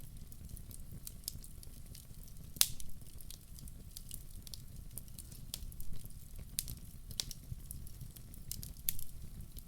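Wood logs burning in a fireplace: irregular crackling and sharp pops over a low, steady rumble of the flames. The loudest pop comes about two and a half seconds in.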